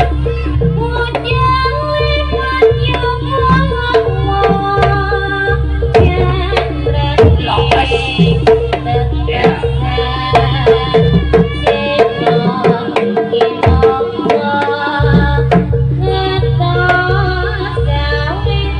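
Jaranan music: hand-drum (kendang) strokes over a gamelan-style percussion ensemble, with a stepped melodic line. The heavy bass drops out for a few seconds about two-thirds of the way through, then comes back.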